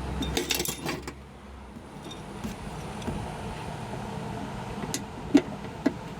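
Metal parts of a riding-mower deck clinking and rattling as the deck is shifted by hand, a burst of jangling in the first second followed by a few sharp knocks near the end.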